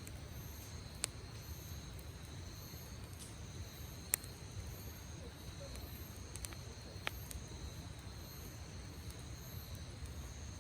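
Campfire burning, with a handful of sharp crackles and pops, the loudest about four seconds in, over a low steady rumble. Insects chirr steadily in high, unbroken tones throughout.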